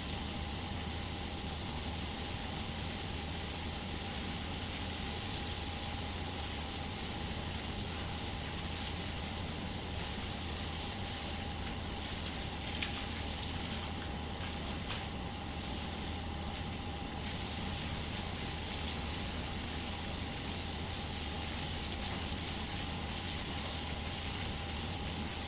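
Steady mechanical drone, with a constant whining tone and a low hum, from a running motor or engine.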